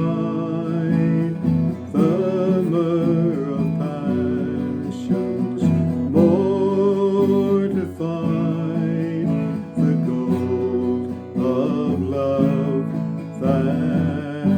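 A hymn sung by a solo voice with vibrato, accompanied by strummed acoustic guitar.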